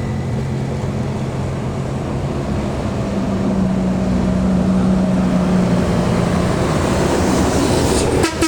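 Heavy truck's diesel engine running under load as it climbs a steep grade, a steady low drone with road noise, broken briefly near the end.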